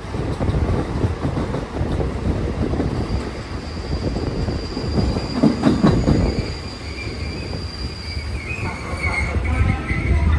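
Passenger train rolling on the rails, heard from a coach with a steady rumble of wheels on track. A thin high wheel squeal sets in a few seconds in, a cluster of knocks comes about halfway, and wavering squeals follow near the end.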